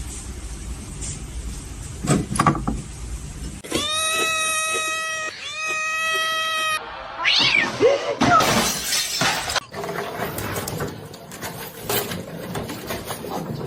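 A cat yowling: two long drawn-out calls held at a steady pitch about four seconds in, followed by shorter rising and falling cries.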